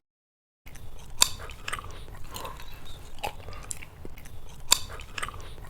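A person chewing with the mouth close to the microphone: irregular wet clicks and crunches of the jaw working food, starting about a second in.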